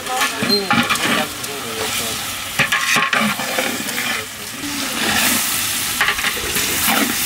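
Pieces of tuna sizzling in hot oil and spice paste in a cooking pot as they are stirred lightly, the stirring strokes coming again and again over the steady frying.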